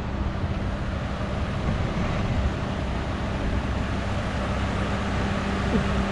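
Strong wind rushing over the microphone, with a steady low hum from a running engine underneath.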